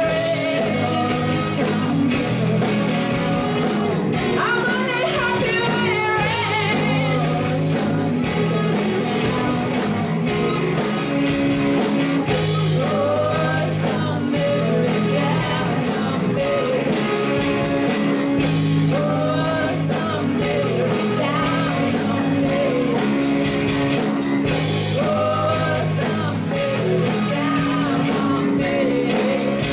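Rock band playing at full volume, with a voice singing over it.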